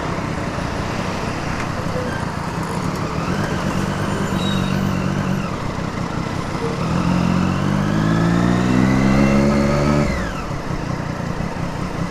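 Triumph Daytona 675R's inline-three engine under way, its note rising steadily for about three seconds as it accelerates, then dropping abruptly about ten seconds in, over road noise.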